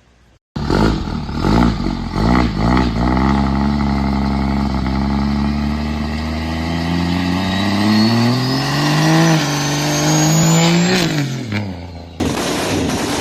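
Muscle car engine, most likely a big V8, blipped through a few quick revs and then pulling hard in one long acceleration, its pitch climbing steadily with a thin high whine rising alongside. Near the end the revs drop away as the throttle closes, and the sound cuts abruptly to a different, noisier car sound.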